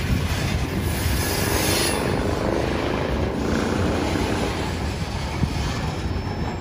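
Loaded CSX coal hopper cars rolling past close by: a steady low rumble of steel wheels on the rails, with a single sharp knock about five seconds in.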